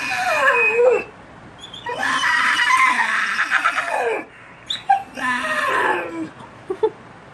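Pit bull 'talking': three drawn-out whining vocal calls, the first and last sliding down in pitch and the middle one the longest, about two seconds.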